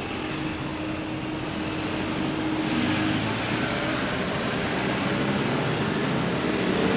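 Engine noise of a passing motor vehicle, a steady rumble and wash that slowly grows louder.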